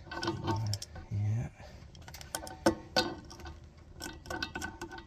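Irregular light metallic clicks and clinks of a hand wrench working the fasteners of a furnace blower motor and wheel assembly.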